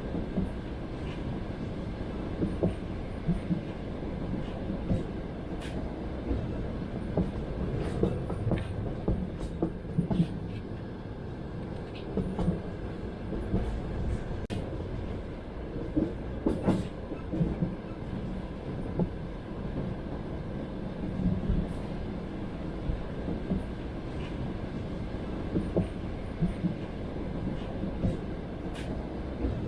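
Passenger train heard from inside the carriage: a steady rumble of wheels on track, broken by irregular clacks and knocks as the wheels cross rail joints.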